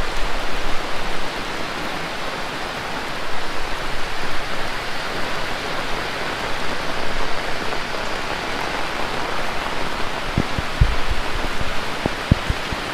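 Heavy rain pouring steadily, a dense even hiss of drops hitting the ground and surfaces around. A few short, dull low knocks come near the end.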